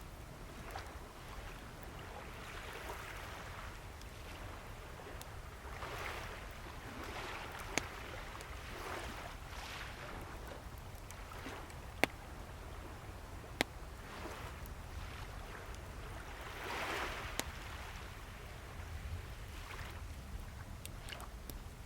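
Waves washing in and drawing back in slow swells over a low surf rumble, with a wood bonfire crackling: a handful of sharp pops a few seconds apart, the loudest about halfway through.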